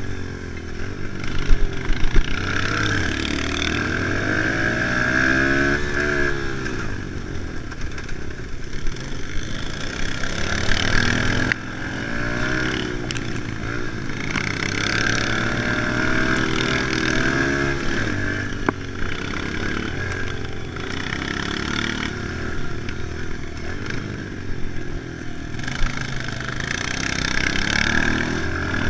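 Kawasaki KLX110 pit bike's small single-cylinder four-stroke engine being ridden hard, its pitch rising and falling over and over as the throttle is opened and closed. A few sharp knocks come through.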